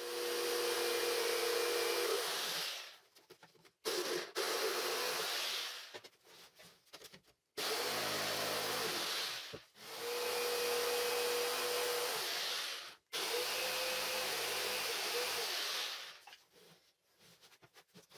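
An electric power tool switched on and off repeatedly, running with a steady whine and a hiss for about two to three seconds at a time, about five times, with short quiet gaps and clicks between runs.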